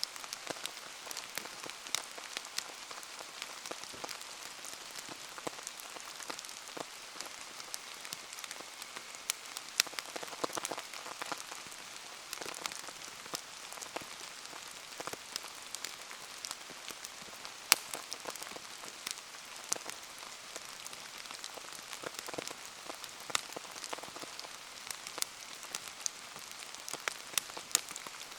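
Steady rain falling, with scattered sharp pops and crackles from a wood bonfire burning in the rain.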